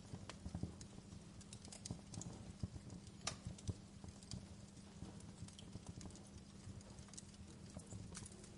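Wood fire crackling: irregular small pops and snaps, with one sharper crack about three seconds in, over a low steady rumble.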